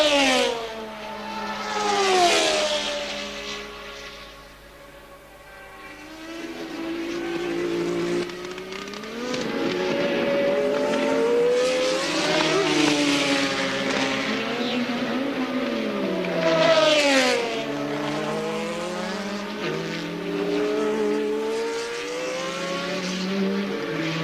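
1983 Formula One cars racing past at speed. Three loud pass-bys, one at the start, one about two seconds in and one about 17 seconds in, each drop in pitch as the car goes by. In between, several engines are heard further off, their pitch rising and falling through the gears.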